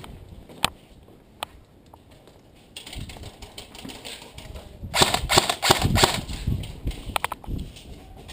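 Airsoft guns firing: a couple of single clicking shots at first, then from about five seconds in a dense stretch of rapid shots in quick bursts.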